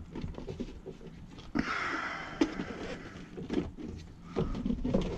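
Plastic housing of a car vacuum cleaner being handled as its cover is fitted back on: scattered light clicks and knocks, with a rustling scrape about a second and a half in.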